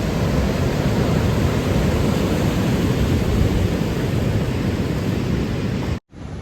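Wind buffeting the microphone on an exposed beach: a loud, steady rush strongest in the low end. It cuts off suddenly near the end, then comes back quieter.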